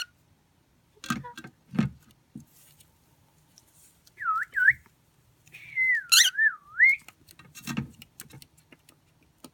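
Cockatiel whistling: two short dipping whistles about four seconds in, then a longer whistle that wavers down and up. A few soft thumps come before and after.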